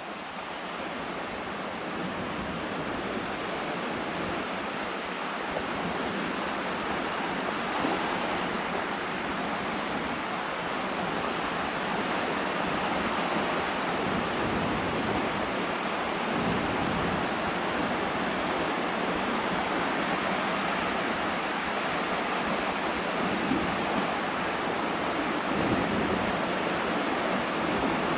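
Waves breaking on the Lake Huron shore under strong wind, a steady rushing wash, with loud wind buffeting the microphone. It swells over the first few seconds, with a few short low gust rumbles around the middle and near the end.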